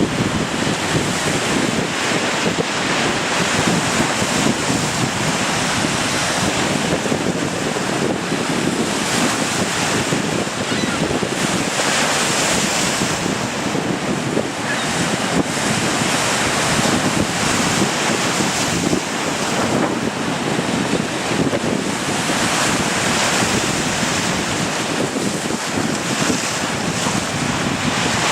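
Large wind-driven waves breaking and washing against the shore in a strong gale, with heavy wind buffeting the microphone.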